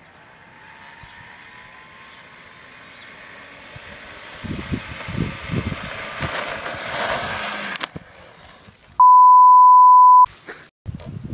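Electric brushless motor of a radio-controlled foam model plane whining, its pitch rising slowly as throttle comes up, with wind gusting on the microphone; it cuts off abruptly about eight seconds in. After a brief silence a steady electronic beep at one pitch sounds for just over a second, louder than anything else.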